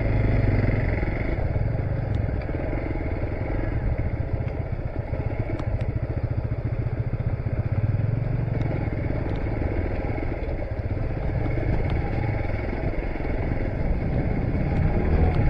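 Hero Xpulse motorcycle's single-cylinder engine running steadily under way on a rough off-road track, with a few light clicks.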